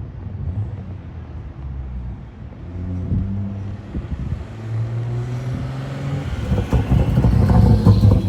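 Car engine running at low revs, getting louder over the last few seconds.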